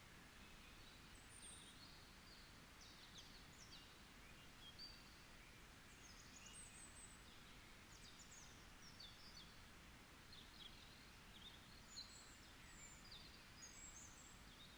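Faint birdsong: many small birds chirping and trilling in short high phrases over a steady soft hiss of forest ambience.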